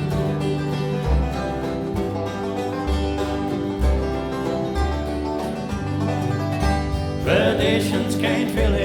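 Bluegrass band playing, with banjo and guitar over deep, evenly paced bass notes; voices come in singing about seven seconds in.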